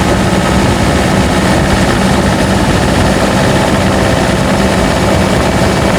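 Turbocharged diesel pickup engine pulling under load up a steep grade in fourth gear: a loud, steady drone with a constant low hum and a hiss above it.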